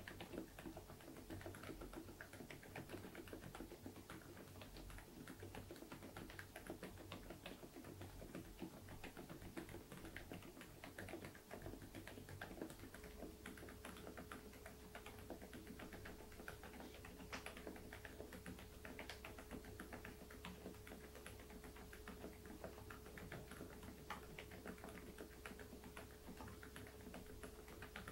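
Continuous typing on an InterPixel IPK104 PRO full-size mechanical keyboard with Outemu Peach V3 silent linear switches: soft, muted keystrokes in a quick irregular patter.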